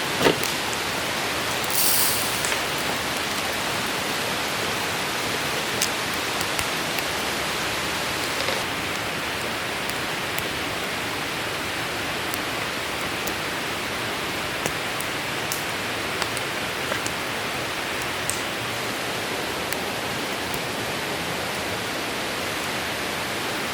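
Open campfire burning directly on the ground: a steady hiss with scattered sharp crackles and pops.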